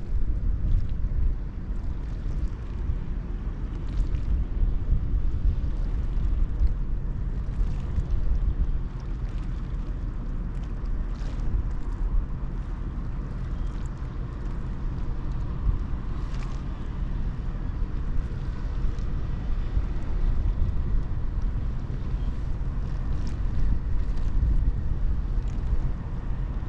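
Wind buffeting the microphone over a steady low rumble from a large Ro-Ro passenger ferry under way.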